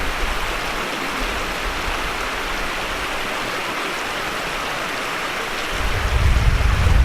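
Creek water running over rocks, a steady rush. A low rumble comes in about six seconds in.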